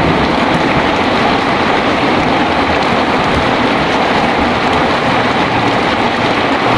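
Heavy rain pouring steadily, with a low rumbling undertone of storm and wind.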